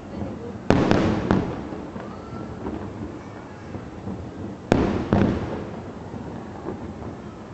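Aerial fireworks shells bursting in two clusters, one about a second in and one near five seconds in. Each cluster is a sharp bang followed by a couple of quicker reports, with a rumbling echo trailing after.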